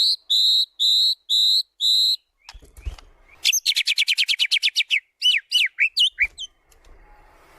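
White-rumped shama (murai batu) singing: five loud, clear repeated whistled notes, then about a second in after a short pause a fast rattling trill, followed by a few downslurred notes.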